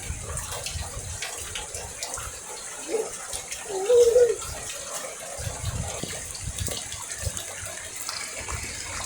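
Steady rain: a continuous hiss of falling and running water. A brief wavering pitched sound comes about three to four seconds in.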